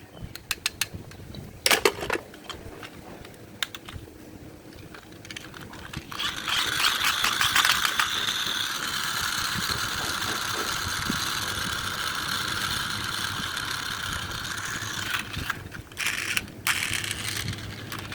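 Plastic clicks and rattles as a small toy is handled, then its small motor and gears whir steadily for about nine seconds before stopping, followed by more clicks.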